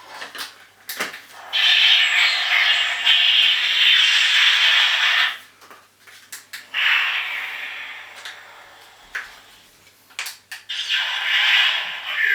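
Electronic sound effects from the Klingon Bird of Prey toy's sound chip, played through its small speaker: three long hissing whooshes, each set off shortly after a click of the toy's button.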